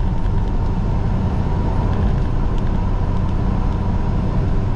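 Semi-truck's diesel engine and road noise droning steadily inside the cab while driving at highway speed.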